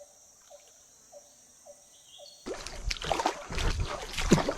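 Splashing and sloshing in shallow water, starting about halfway through after a nearly quiet first half. It is someone moving and grabbing through a stream while chasing frogs.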